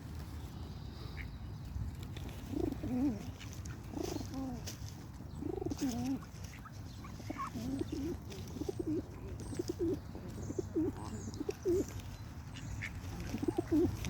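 Pigeons cooing: a few drawn-out rising-and-falling coos, then a quicker run of short coos, over a steady low rumble.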